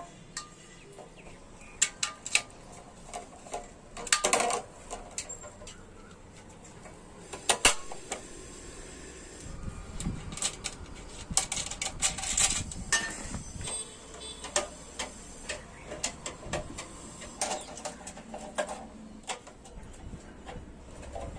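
Irregular clicks, taps and clinks of hand tools and small metal parts being handled, coming singly and in short clusters.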